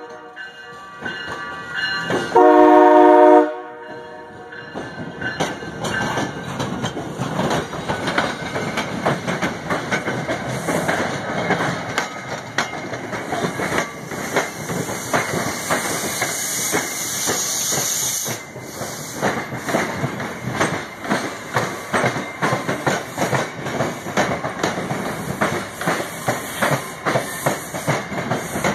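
MBTA commuter rail train passing slowly along a station platform. A short chord-like horn blast sounds about two seconds in, then coach wheels clack over the rail joints steadily, with a high hiss partway through.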